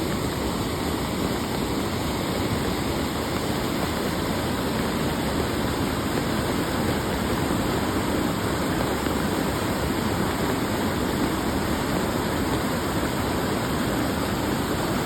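Flash-flood water rushing, a steady continuous noise with no breaks.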